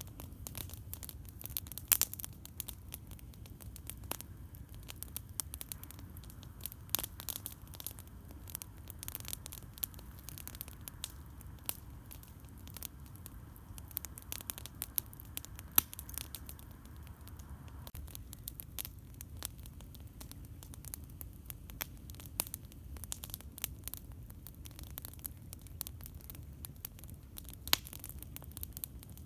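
Campfire crackling: wood popping and snapping in irregular sharp clicks, with a few louder pops, over a steady low rumble.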